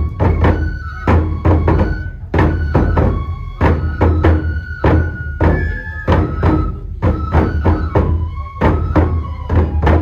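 Live kenbai festival music: a drum struck in a quick, uneven rhythm under a high flute melody that moves from note to note.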